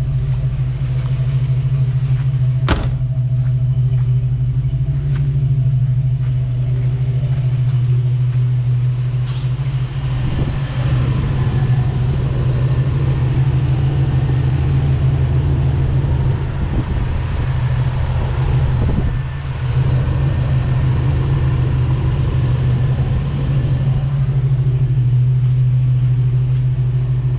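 1984 Hurst Olds's 307 V8 idling steadily shortly after a cold start, its note coming through Flowmaster mufflers on the dual exhaust. A single sharp click about three seconds in.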